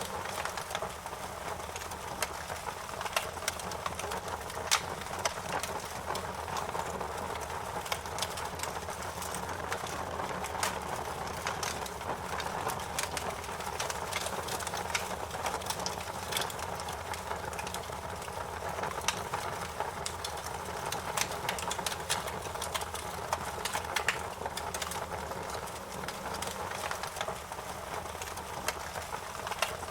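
Bonfire crackling: a steady hiss of burning wood with many short, sharp pops and snaps scattered irregularly through it.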